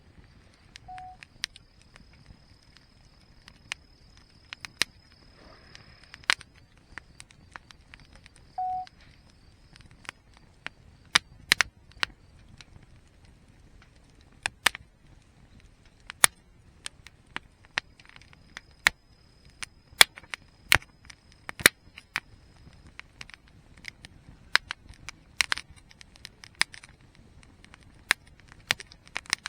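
Wood campfire crackling, with irregular sharp pops and snaps of burning wood over a low rumble of the flames.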